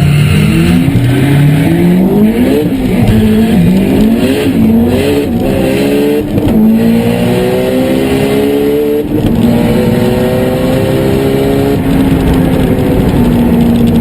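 A high-revving car engine revving hard, its pitch climbing and dropping several times, then holding a steady high note from about nine seconds in.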